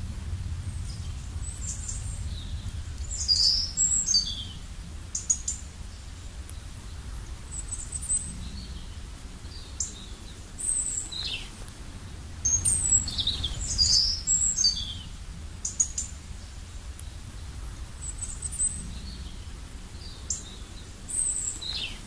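Birds chirping and calling: scattered short, high notes, some sliding quickly downward, in flurries about three seconds in and again around the middle. A low steady rumble runs underneath.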